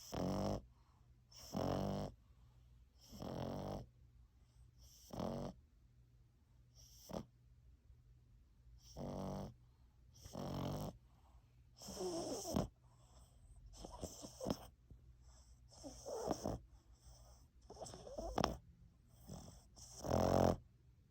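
French Bulldog–Boston Terrier mix puppy snoring in its sleep, one snore about every one and a half to two seconds, each lasting about half a second. In the second half the snores come closer together and more ragged.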